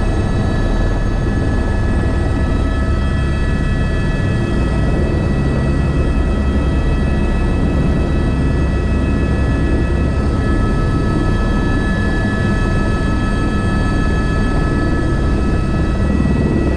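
Airbus H125 single-engine helicopter running steadily, a dense low rotor and engine rumble under several steady high-pitched turbine and gearbox whines.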